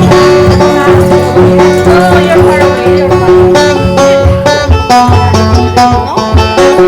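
Live acoustic music: plucked string instruments playing a busy instrumental passage of quick picked notes over held chords, with no singing.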